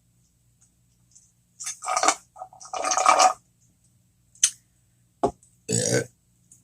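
Close-up eating and mouth sounds, then a loud, low, pitched burp near the end.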